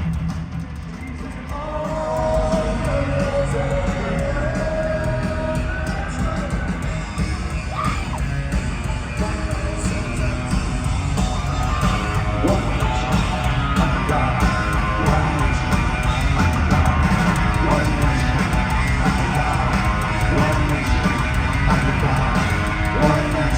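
Live punk rock band playing, with distorted guitars, drums and a shouted lead vocal. The sound is quieter for the first second or two, then the full band comes back in and plays steadily.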